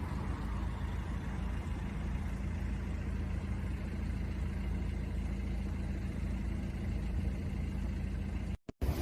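A vehicle engine running at a steady low pitch, cut off abruptly near the end.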